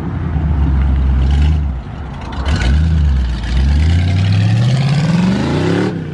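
Car engine accelerating hard: a deep engine note holds, dips briefly about two seconds in, then climbs steadily in pitch and cuts off just before the end.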